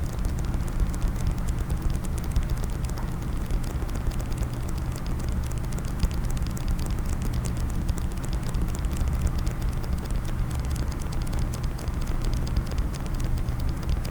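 Rapid, continuous tapping on a hard case, a dense stream of small taps with no pauses.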